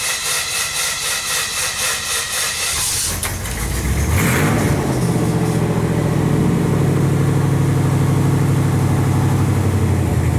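1967 Chevrolet Impala engine cranking on the starter, about four strokes a second, for roughly three seconds, then catching with a brief rev and settling into a steady idle. The engine has no headers or mufflers fitted, so the exhaust is open.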